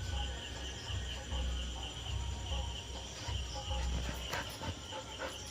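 Insects chirring steadily in a high, even drone, with low rumbling on the microphone that comes and goes.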